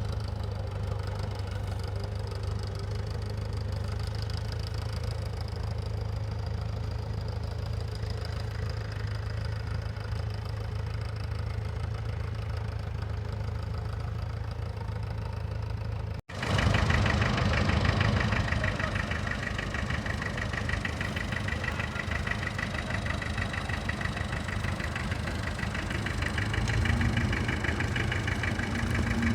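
Tractor engine running steadily. About sixteen seconds in the sound cuts off for an instant and comes back louder and brighter, with the engine closer.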